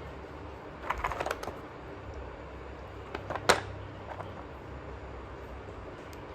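Slate pencils crunching and snapping: a quick cluster of crisp cracks about a second in, then a single sharp, loud crack about halfway through, with a few fainter clicks between.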